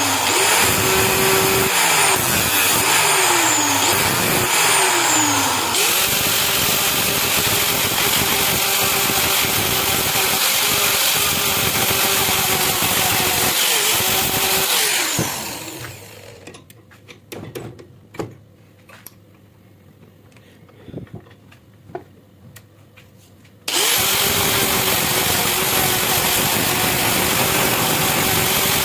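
Electric power tool motor running steadily, its pitch dipping several times in the first few seconds. It winds down about halfway through, leaving a few seconds of quiet with light clicks and taps. Then the motor is suddenly running again.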